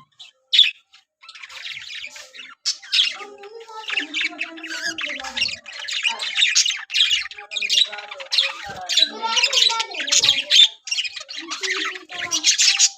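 Budgerigars chattering and squawking in a fast, high-pitched, nearly unbroken stream, starting in earnest about a second and a half in.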